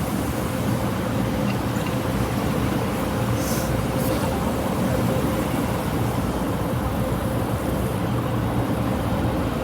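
Automatic tunnel car wash machinery running, heard from inside the car's cabin: a steady rumble and hiss with a constant hum, and two short spray hisses about three and a half and four seconds in.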